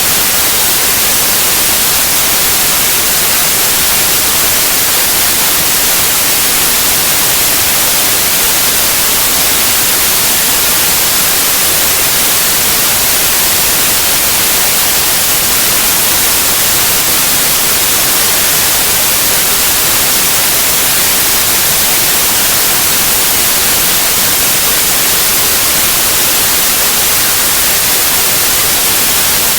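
Steady, loud white noise: an even hiss that does not change.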